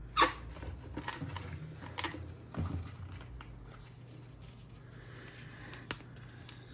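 Small boxed parts and packaging being handled: a sharp click just after the start, then scattered clicks and rustles for about three seconds, quieter after that.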